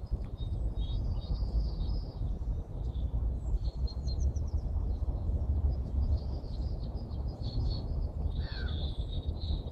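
Several small songbirds singing and chirping in quick high twitters and trills, with a single falling call near the end, over a steady low rumble.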